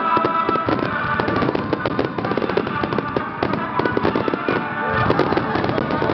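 A star mine fireworks barrage: many shells and mines bursting in rapid succession, a dense, continuous crackle of bangs with no pause.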